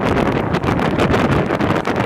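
Wind buffeting the microphone on a moving boat, a loud, uneven rushing.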